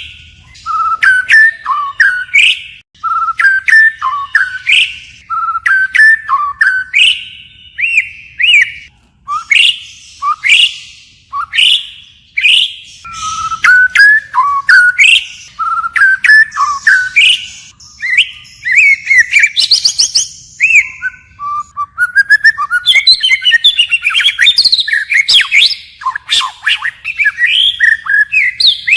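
White-rumped shama singing a fast, varied song of short whistled phrases and sharp chips, switching phrases continually. A denser run of tangled notes comes about three-quarters of the way through.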